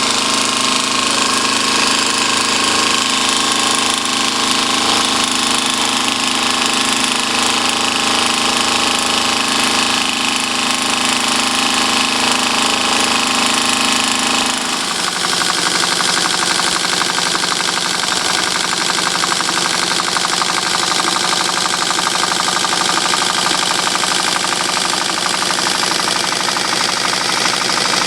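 Homemade V-twin steam engine running fast with a continuous hiss and rapid mechanical beats. About halfway through, its steady pitch drops, as the engine slows.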